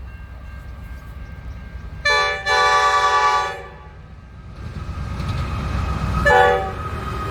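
Train horn sounding over the low rumble of a train: a long blast of about a second and a half, broken briefly near its start, then a short blast a few seconds later.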